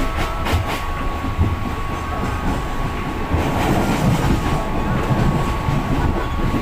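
Moving passenger train carriage heard from inside: a steady low rumble of wheels on the track with a thin steady whine, and a few sharp clicks about half a second in.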